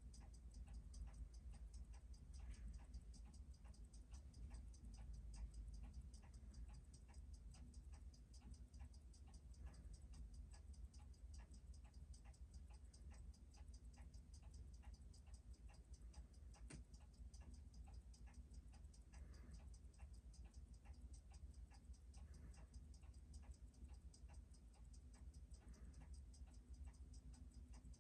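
Faint, rapid, even ticking of a freshly serviced Seiko 6105 automatic watch movement running at a steady amplitude, over a low hum.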